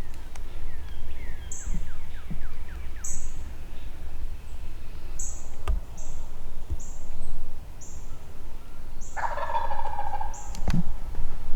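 A wild turkey gobbler gobbles loudly about nine seconds in, after a fainter run of quick falling notes near the start. Short, high chirps repeat about once a second throughout.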